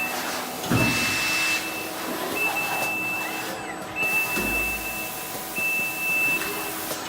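Automated robotic drilling and pressing cell at work: motor whines that rise and fall in pitch, a burst of air hiss about a second in, and a high steady beep about a second long that repeats roughly every second and a half.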